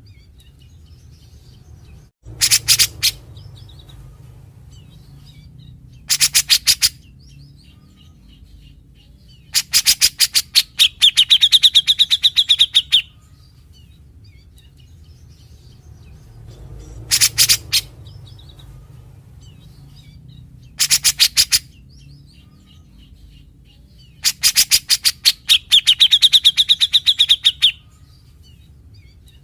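Grey-cheeked bulbul (cucak jenggot) calling in six harsh rattling bursts of rapid, evenly spaced notes, the rasping 'besetan' this bird is known for; the two longest bursts, each about three and a half seconds, carry a ringing note through them.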